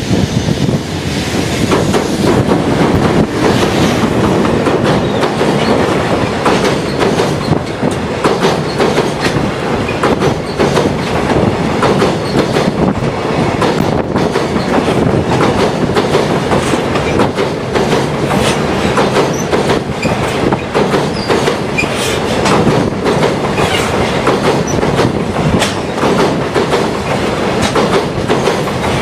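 Freight train's wagons rolling across a steel railway bridge: a steady rumble with a continuous clickety-clack of wheels over rail joints and some wheel squeal.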